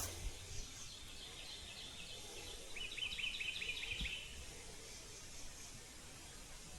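A small songbird singing a quick run of about ten short, repeated high notes, starting about three seconds in, with a fainter twittering just before it, over quiet woodland background. A soft knock comes near the end of the song.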